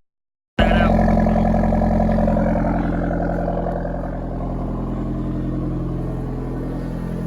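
Hyundai Genesis Coupe 2.0T turbo four-cylinder running through a straight-pipe exhaust. It is loudest just after the sound begins, then eases over a few seconds to a steady idle.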